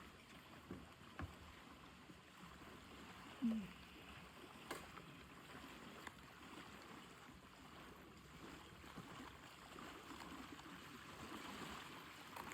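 Faint footsteps and scattered small knocks of someone walking down a stairway and ramp toward a dock, over a low hiss of water. One brief low tone about three and a half seconds in is the loudest moment.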